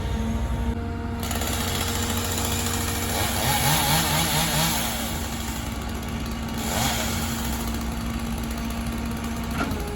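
Engine running steadily, with a louder rushing surge from about three to five seconds in and a shorter one near seven seconds.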